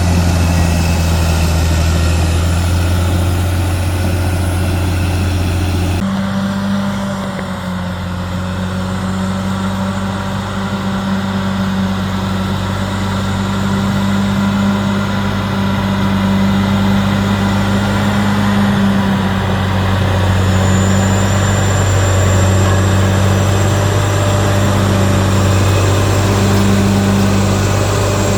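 CAT D6R XL bulldozer's diesel engine running steadily at work. Its tone shifts suddenly about six seconds in, then carries on evenly.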